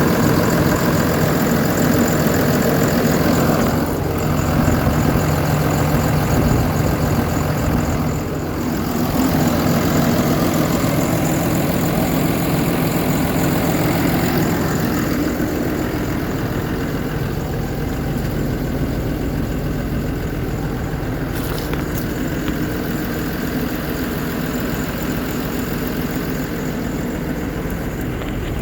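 Diesel engine on a 2008 Peterbilt reefer truck running steadily, with two brief dips in level about four and eight seconds in.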